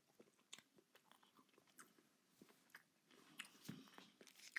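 Faint chewing of a chicken nugget, soft wet mouth clicks scattered throughout, a little busier in the last second or so.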